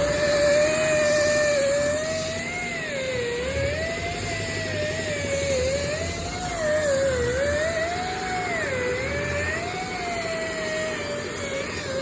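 Power sander running on the car's steel roof, its motor whine dipping and recovering every second or two as it is pressed into the metal. It is sanding off surface rust left where the vinyl top held moisture.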